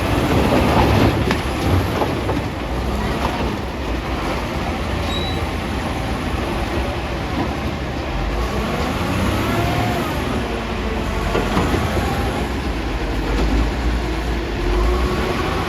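Caterpillar 966D wheel loader's diesel engine running hard, with a few knocks and clatters. A steady whine comes in near the end.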